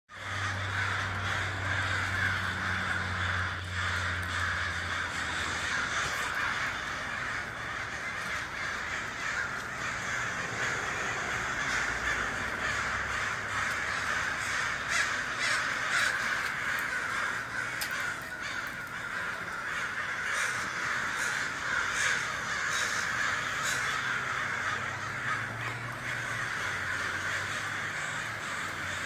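A large flock of American crows cawing in a dense, overlapping chorus, typical of crows gathering toward their roost at sunset.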